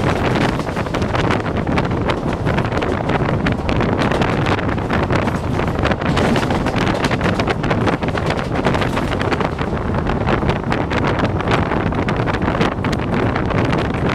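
Steady wind rushing over the microphone on board a moving passenger train, with the train's running noise underneath.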